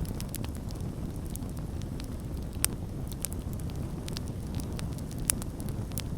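Campfire crackling: a steady low rumble of flames with many small, irregular sharp pops, two of them louder, a little before halfway and near the end.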